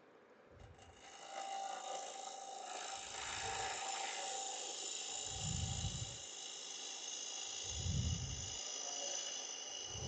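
Lathe gouge cutting a spinning log, a steady scraping hiss of the tool on the wood that starts about a second in. A low thump comes about every two and a half seconds.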